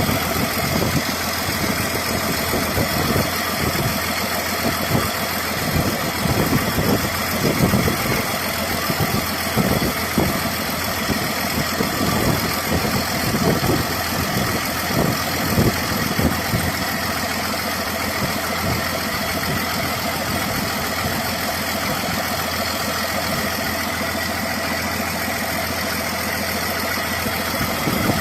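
Heavy diesel engine running at idle, with uneven low pulses through roughly the first half before it settles into a steadier run.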